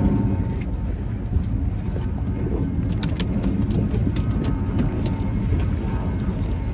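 Steady low rumble of wind and water around a small fishing boat, with scattered light clicks and knocks, most of them in the middle of the stretch.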